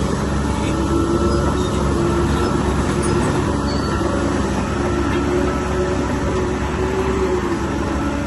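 Heavy diesel earthmoving machinery, typically a bulldozer, running steadily under load, with a pitched whine that comes and goes over the engine.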